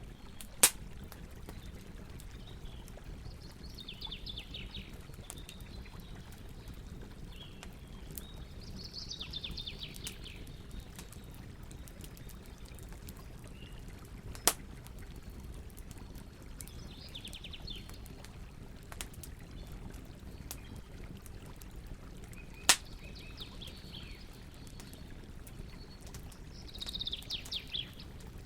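Campfire burning with a low steady rush and three sharp pops of the burning wood, the loudest sounds. Songbirds sing about five short phrases of quick notes in the background.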